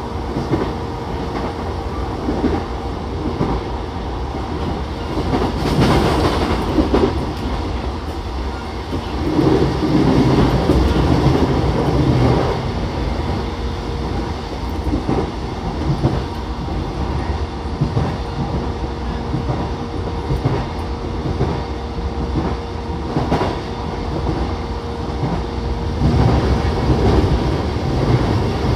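Running sound heard inside an E233-7000 series electric commuter train at speed: a continuous wheel-on-rail rumble with a steady whine and clicks from the track, swelling louder a few times.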